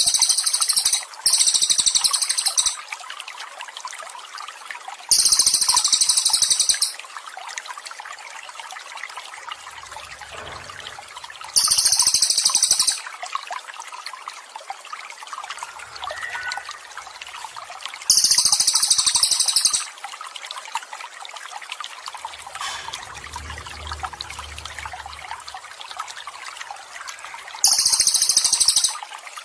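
Water trickling steadily, broken by loud, very high buzzing trills from a songbird, each one to two seconds long, coming about six times with gaps of several seconds between them.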